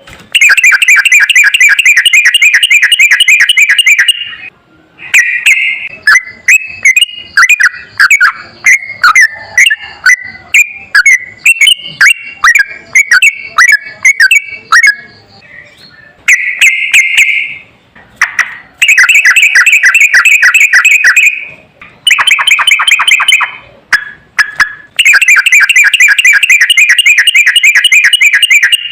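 Sooty-headed bulbul song: long, very rapid rolling trills lasting several seconds each, alternating with shorter, varied chirping phrases.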